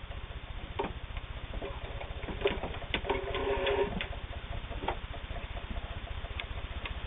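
West German Meister steel-gear sewing machine running, stitching a scallop pattern: a fast, even rhythm of needle strokes with scattered clicks, and a brief hum about halfway through.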